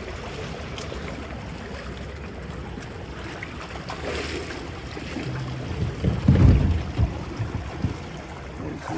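River water flowing, an even rushing noise, with a loud low rumble about six seconds in.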